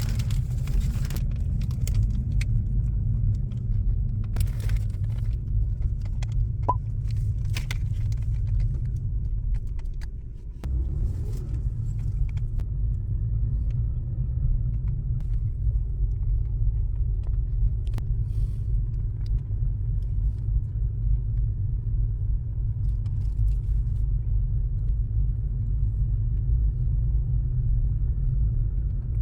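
A steady low rumble that drops away for a moment about ten seconds in, then returns, with a few faint clicks in the first several seconds.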